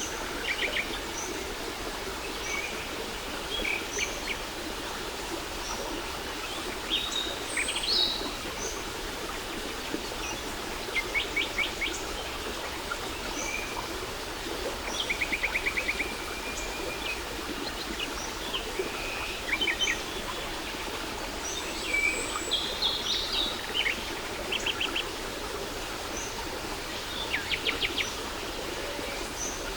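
Steady rush of a waterfall, with several birds calling over it: short high chirps and fast trills every few seconds.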